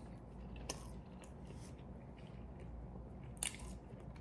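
Quiet chewing of a burger, with a few short wet mouth clicks, the sharpest about three and a half seconds in.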